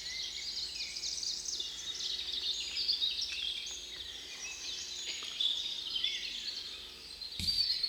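Many songbirds singing and chirping together in a dense, unbroken chorus of quick, high calls. Near the end a short low rumble and a knock cut in.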